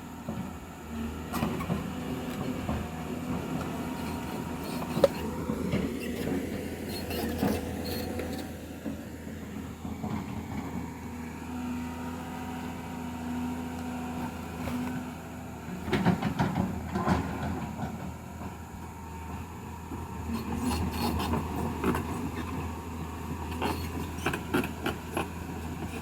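Heavy machine's engine running steadily, working at the repair site, with scattered knocks and clattering, a busier stretch of clatter about two thirds of the way through.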